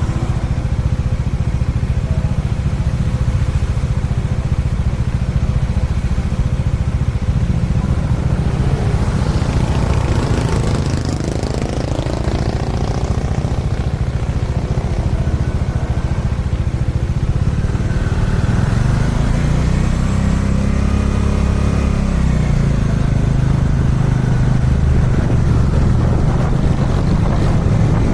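Dominar 400's single-cylinder engine running at expressway speed under wind and road noise, its pitch easing off and climbing again a couple of times as the throttle changes.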